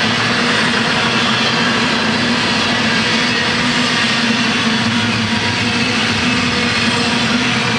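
Double-stack container train's loaded well cars rolling past, their steel wheels running on the rails in a steady, loud noise with a constant low hum.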